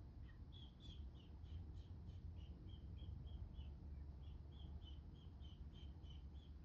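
A small bird chirping repeatedly: short high notes about three a second, with a brief pause partway through, over a faint low rumble.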